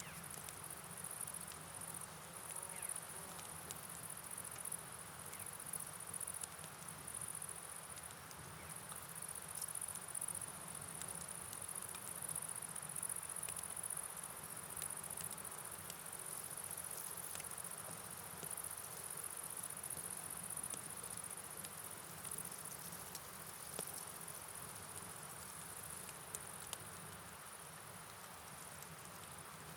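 A steady, high-pitched chorus of night insects chirring, over a soft even rush of rain and river water, with faint scattered ticks of drops.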